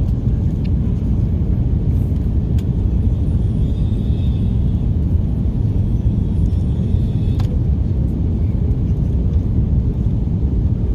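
Steady low rumble inside the cabin of an Airbus A330 airliner near the end of its flight, with a couple of faint clicks.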